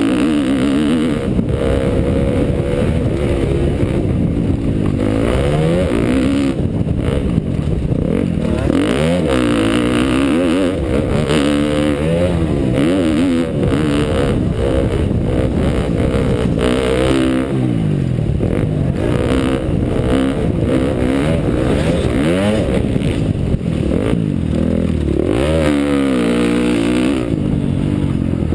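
2012 KTM dirt bike engine being ridden, its pitch climbing and dropping over and over as the throttle is opened and closed and the gears change.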